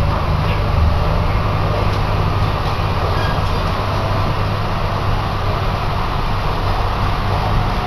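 Inside a moving train carriage on the Chitose Line: a steady low rumble of running noise from the wheels and rails.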